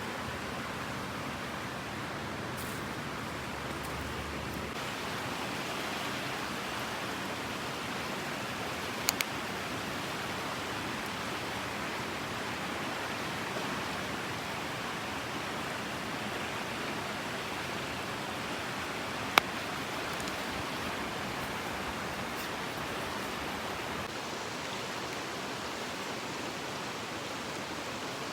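Mountain stream water rushing steadily, with a sharp double click about nine seconds in and a single sharp click about nineteen seconds in.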